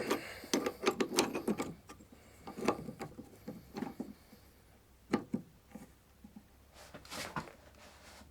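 Wrench tightening the top nut of a car's front strut mount: irregular runs of short metal clicks and clinks, with a few louder knocks.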